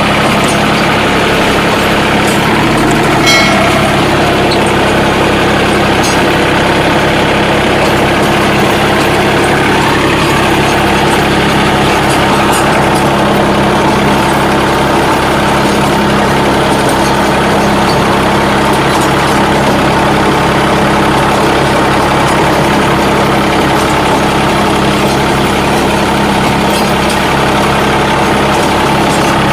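John Deere 3036 compact tractor's three-cylinder diesel engine running steadily while working a rotavator, with one brief knock about three seconds in.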